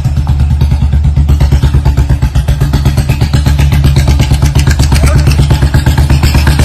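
Royal Enfield single-cylinder motorcycle exhaust thumping loudly at a steady idle, a fast, even beat of exhaust pulses.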